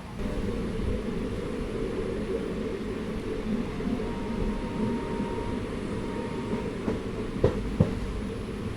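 Passenger train running along the track, a steady rumble of wheels and carriage. A faint whine comes in midway, and two sharp knocks sound close together near the end.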